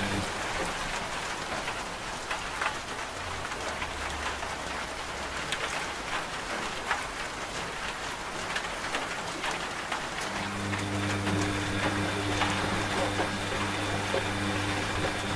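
Steady rain with scattered drop taps, mixed with a washing machine's motor hum that cuts out at the start and comes back about ten seconds in.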